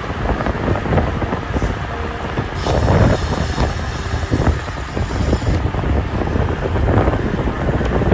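Wind buffeting the microphone of a bike-mounted camera during a fast group road ride, a steady low rumble. A high hiss joins it for about three seconds in the middle.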